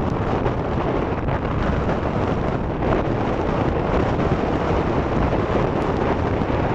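Steady rushing roar of strong wind buffeting the microphone, mixed with the jet noise of an Embraer E190 airliner landing.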